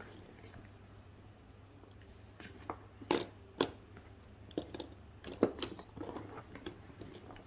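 Puzzle pieces being handled and fitted together: a few light clicks and knocks spread over several seconds.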